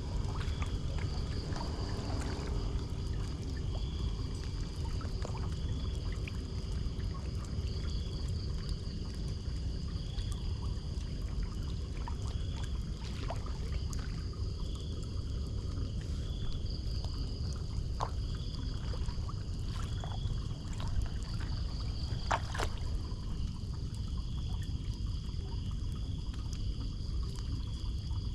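Floodwater pouring and trickling into a street storm drain, a steady low rush, with a high chirp repeating about every second and a half and a few scattered clicks over it.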